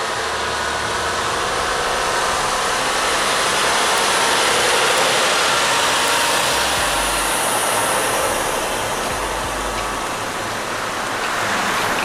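Heavy trucks running under load: a steady rushing engine and road noise with a low rumble that comes and goes.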